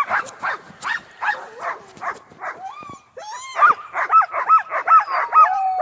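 Several sled dogs barking and yelping, at first about three barks a second, then from about three seconds in a denser, higher-pitched chorus of overlapping yelps, with one long drawn-out cry sliding down in pitch near the end.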